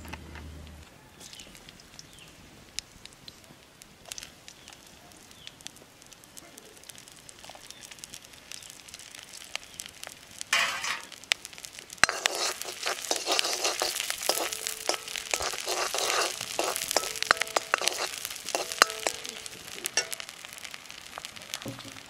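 Yellow batter with onion frying in hot oil in a black wok over a wood fire. It starts sizzling and crackling loudly about halfway through as it is spread with a ladle; before that there are only faint clicks.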